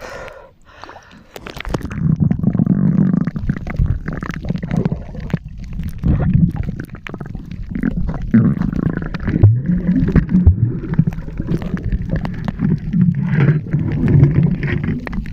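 Muffled low rumbling and gurgling of water moving around a submerged camera, starting about a second and a half in, with scattered short clicks.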